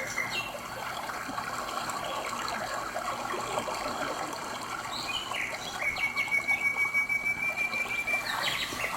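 A mountain stream running steadily, with a bird calling over it: one long, steady whistled note of about two and a half seconds past the middle.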